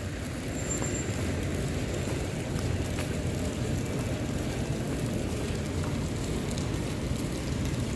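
Steady rain: an even, low rumbling noise with scattered faint ticks of drops.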